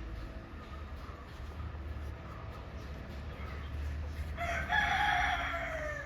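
A rooster crowing once, starting about four seconds in: one long call that drops in pitch at the end, over a low steady hum.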